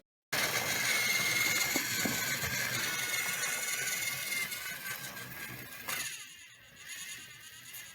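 An engine or motor running with a steady hiss and a high whine, dying down about six seconds in.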